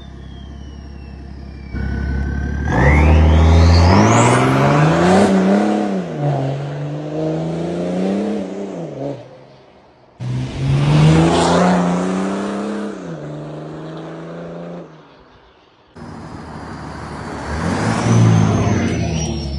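BMW 335d's 3.0-litre twin-turbo straight-six diesel pulling hard through the gears, its note climbing and dropping in three separate runs, with abrupt cuts about ten and sixteen seconds in. A high whistle rises sharply about two seconds in as the turbos spool.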